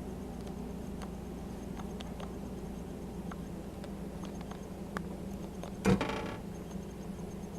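Toaster oven running with a steady low hum and scattered faint ticks. One sharp knock with a short ringing tail comes about six seconds in.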